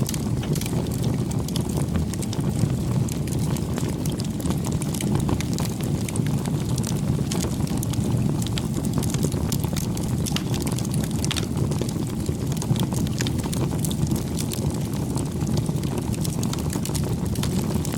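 Campfire burning: a steady low rush of flames with frequent small crackles and pops.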